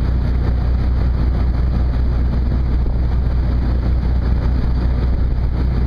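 Steady low drone of a ship's deck machinery running, with a constant rushing noise over it.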